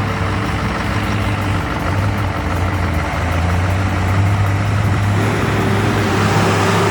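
Truck engine running steadily with a low hum and road noise; a higher steady tone joins about five seconds in.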